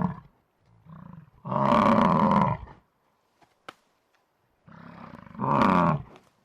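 A large animal calling twice: each call opens with a quieter, low sound and swells into a loud, drawn-out call, the first lasting over a second, the second shorter.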